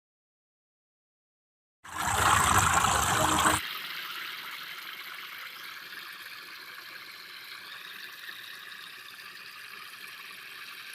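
Water splashing and trickling from a small tabletop fountain. After a couple of seconds of silence, a louder rush of water comes in and settles after under two seconds into a steady, softer trickle.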